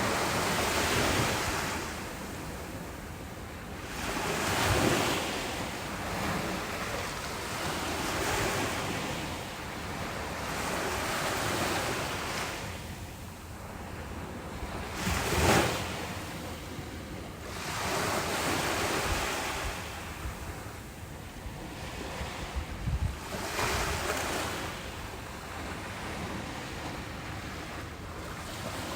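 Ocean waves breaking on a beach, surges of surf swelling and washing out every few seconds, one sharper crash about halfway through, with wind buffeting the microphone.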